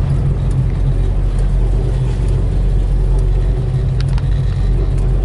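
1967 Plymouth Barracuda's 318 V8 with dual exhaust running steadily at low speed, heard from inside the cabin as a low, even hum, with a few light clicks about four seconds in.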